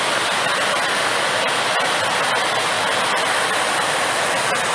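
A steady, even rushing of water from heavy rain and runoff, with faint scattered ticks through it.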